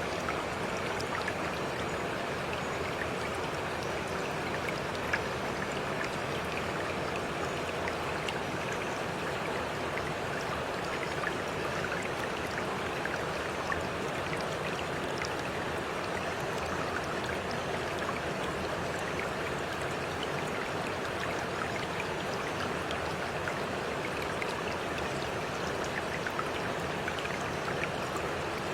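Steady running water of a flowing stream, with small splashes and drips scattered through it.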